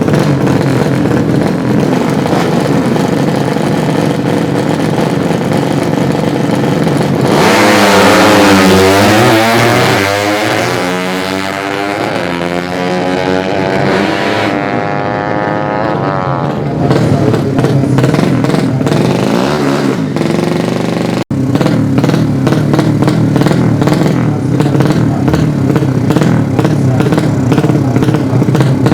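Racing 200cc underbone motorcycle engines running loudly throughout. From about a quarter of the way in, one bike grows louder, its pitch climbing and dropping over about ten seconds, before the steady engine noise returns. The sound cuts out for an instant a little past two-thirds of the way through.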